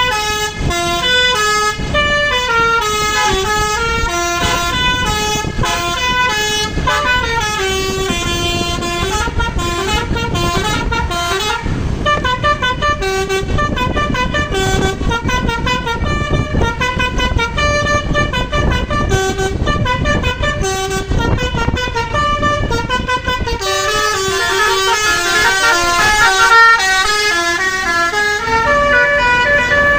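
A bus's basuri (telolet) multi-tone air horn plays a continuous melody of quick stepped notes, rising and falling runs one after another without a break, over low engine and road noise.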